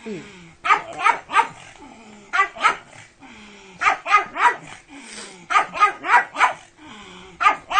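Pug barking over and over in quick runs of two to four short, sharp barks, with brief pauses between the runs.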